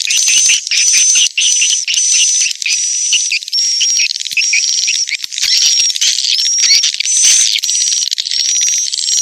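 Edible-nest swiftlet lure call (suara tarik): dense, high-pitched twittering chirps in repeating phrases about twice a second, each phrase with a short held whistle-like note. It is the kind of call played in a swiftlet house to draw swiftlets inside.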